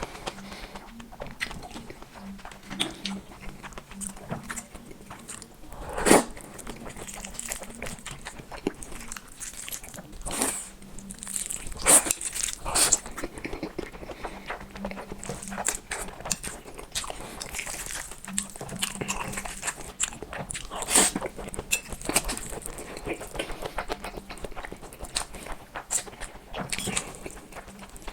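Close-up eating sounds: black noodles slurped and chewed with wet mouth clicks and smacks, and a few louder slurps.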